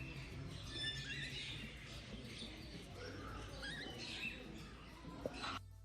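A mix of aviary birds chirping and squawking, many short calls sliding up and down in pitch, over a background murmur. The sound cuts off suddenly near the end.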